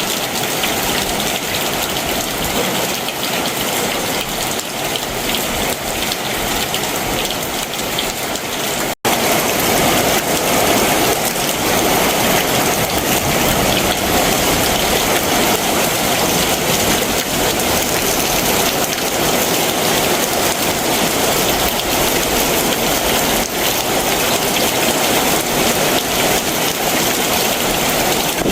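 Heavy summer monsoon downpour falling steadily. About nine seconds in, the sound cuts out for an instant and comes back louder and fuller.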